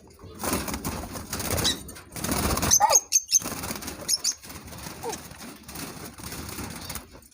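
Lovebirds flapping their wings in a cage while being caught with a net, with a few short, high chirps.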